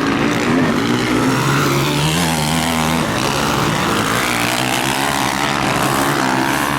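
Several motocross motorcycle engines revving together as the bikes race round the track, their pitches rising and falling as the riders open and close the throttle.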